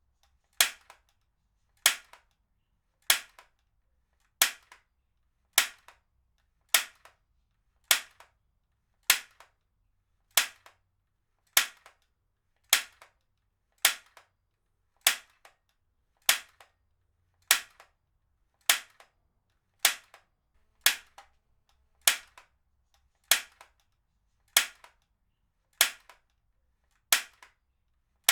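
Heavy-duty stapler fired over and over at a steady pace, a sharp snap about every 1.2 seconds, with a much fainter click just after each one.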